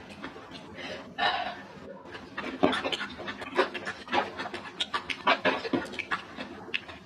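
A person chewing food up close to the microphone: wet mouth sounds with irregular sharp, crisp clicks and crunches, and a breathy puff about a second in.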